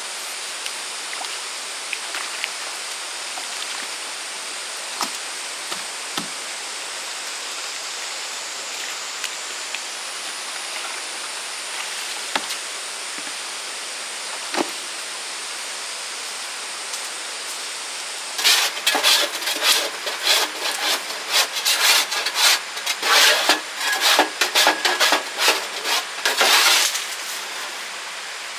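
Steady rushing hiss with a few faint clicks. About two-thirds of the way in, a run of rapid, loud, irregular scraping strokes lasts several seconds, then stops.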